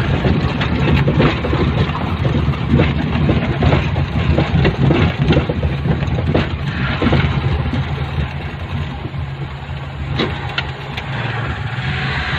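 Vehicle engine running steadily while driving, heard from on board, with frequent knocks and rattles over the steady low hum.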